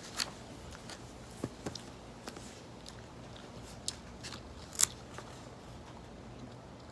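A few light clicks and taps, the sharpest about five seconds in.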